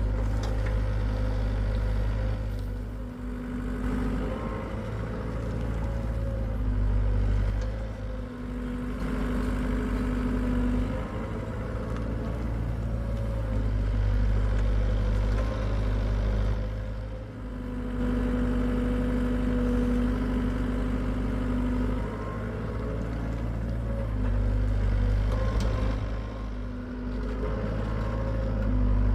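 Hitachi EX75UR excavator's diesel engine running steadily under a working load. The engine note swells and eases every few seconds as the machine digs, with a humming tone that comes and goes.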